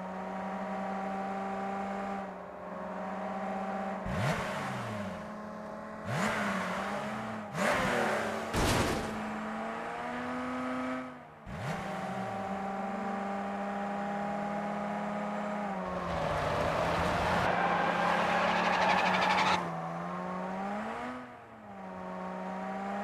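Car engine running at a held pitch, with short clattering sweeps and pitch drops several times and a louder, rougher stretch about two-thirds of the way through.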